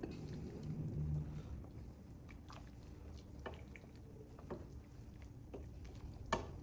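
Scattered light clicks and taps of kitchen handling, with one sharper click near the end.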